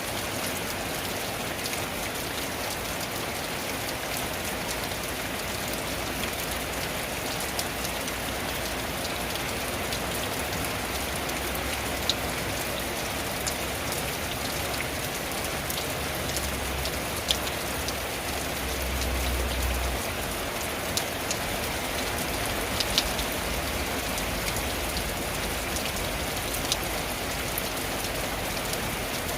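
Steady rain falling on a tin roof, with louder single drops striking sharply now and then. A low rumble swells briefly about two-thirds of the way through.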